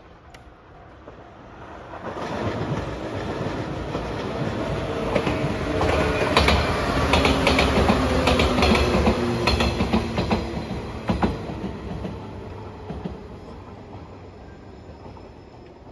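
A JR 115-series electric multiple unit passing close by. The sound builds over a couple of seconds, and the wheels click over the rail joints while the train is loudest in the middle. It then fades as the train moves away.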